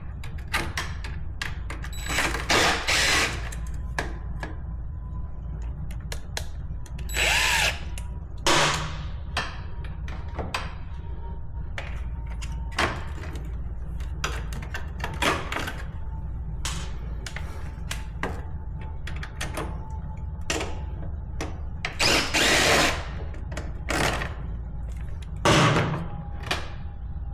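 A handheld power tool run in short bursts of about a second, several times, between many sharp clicks and clanks of tools and metal parts, as bolts and hardware are worked off an ATV.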